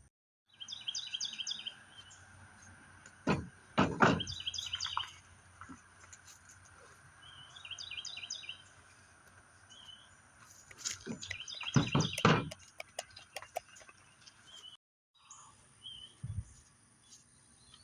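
A songbird singing short, repeated chirpy phrases over and over. Now and then it is broken by loud brief knocks and handling sounds, a cluster about three to four seconds in and another about twelve seconds in.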